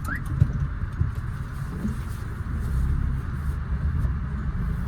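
Cabin sound of a Maruti Suzuki A-Star reversing slowly: steady engine and AC blower running, with a low rumble and scattered knocks and rattles from the body. One short rising beep sounds right at the start.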